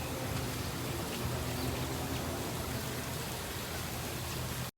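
Steady outdoor background hiss over a low hum, with no clear events in it; it cuts off abruptly near the end.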